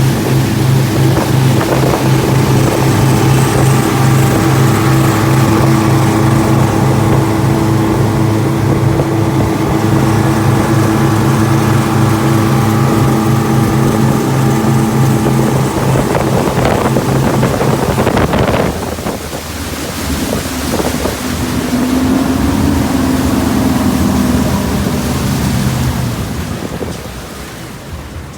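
Twin 200 hp engines of a boat running steadily at speed, with wind buffeting the microphone and water rushing past. About two-thirds of the way through the engine note drops away, returns more weakly at a different pitch for a few seconds, and fades out near the end.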